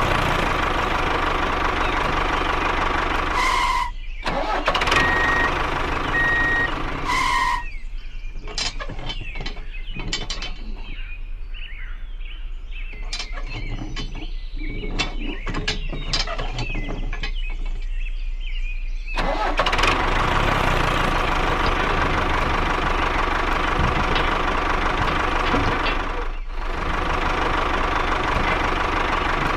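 A small engine running steadily. Its hum drops away for about ten seconds in the middle, where scattered clicks and clattering take over, then comes back.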